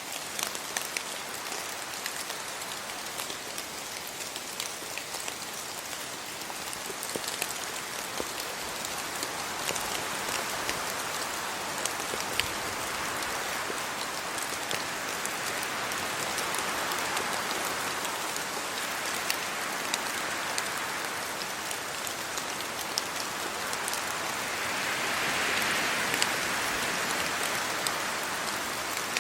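Steady rain hissing, with many individual drops ticking sharply throughout. The hiss swells twice, around the middle and again near the end.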